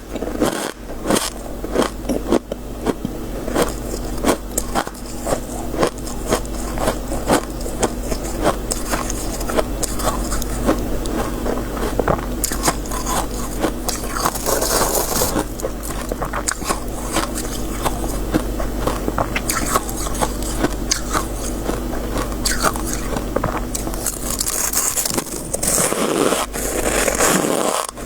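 Close-up crunching and biting of soft freezer frost, a dense run of crisp crackles, with a few longer scraping strokes as the frost is scraped up. A steady low hum runs underneath and stops near the end.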